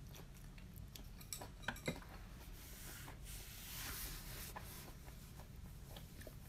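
Faint chewing of a mouthful of sushi, with a few light clicks of chopsticks against the plastic sushi trays about one and a half to two seconds in.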